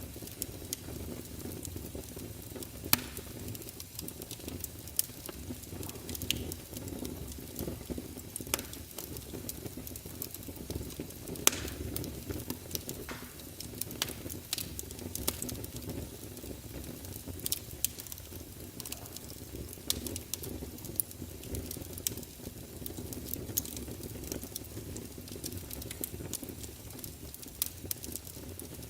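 Wood fire burning in a fireplace: a steady low rumble of flames with irregular crackling and occasional sharp pops of the burning logs.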